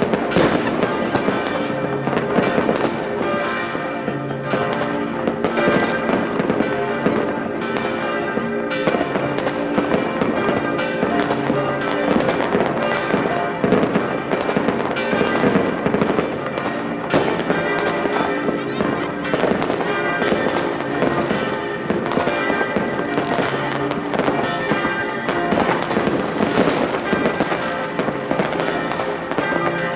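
Many New Year's Eve fireworks going off at once: a dense, unbroken run of bangs and crackles, with steady pitched tones underneath.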